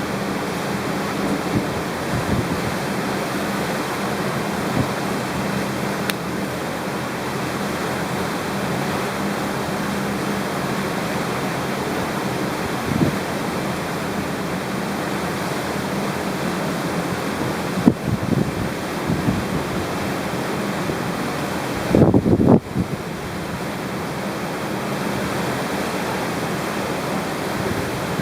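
Steady rushing of wind across the microphone on the deck of a moving ship, over a low steady hum, with a few brief low buffets; the loudest comes about two-thirds of the way through.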